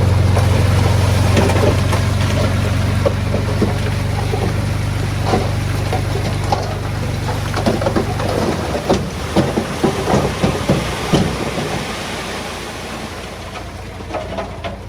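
Heavy diesel earthmoving machinery running steadily, its low engine note dropping about two-thirds of the way through, with a run of knocks and clatters typical of stones tumbling and being shoved, thickest near the end.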